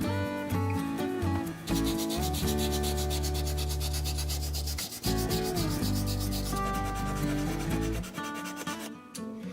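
Sandpaper rubbing over the wooden handle of an old Mora knife to strip its chipping paint, with guitar background music.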